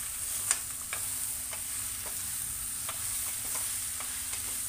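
Minced mutton with onions and spices sizzling in a kadhai as it is fried (bhuna) and stirred with a steel spatula. The spatula makes repeated clicks and scrapes against the pan, the loudest about half a second in.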